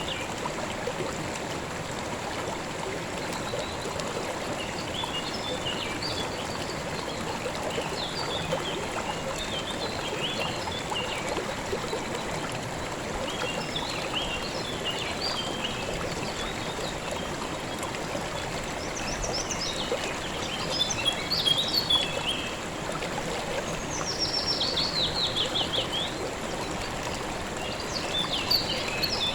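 River water flowing steadily, with small birds chirping throughout; about three-quarters of the way through, one bird gives a rapid trill of falling notes.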